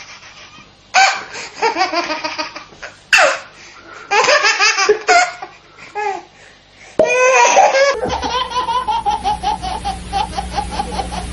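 Laughter in short separate bursts, some of it high-pitched. About 8 seconds in, a different laughing clip takes over, with quick even pulses of laughter over a steady low hum.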